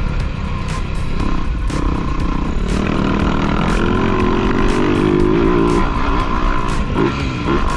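Motocross dirt bike engine running and revving, its pitch climbing and wavering through the middle.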